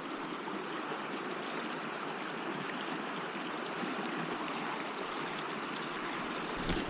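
Steady rush and babble of a small mountain stream's flowing water, with a few light clicks near the end.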